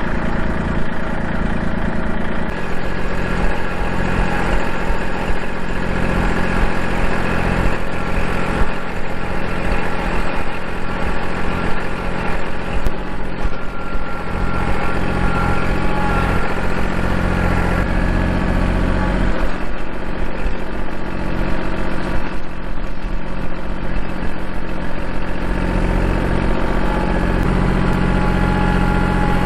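Kubota L2501 compact tractor's diesel engine running steadily, its note shifting a few times as the load or throttle changes.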